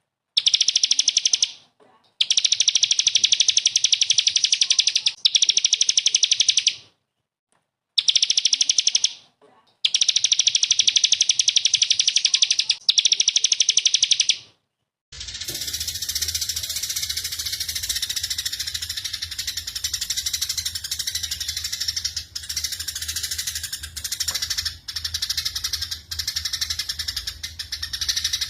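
Small songbird song of the rapid-fire 'tembakan' kind: fast, high buzzing trills in bursts of one to four seconds separated by short silences. About halfway through, a different recording takes over, a denser continuous high chattering song over a low steady hum.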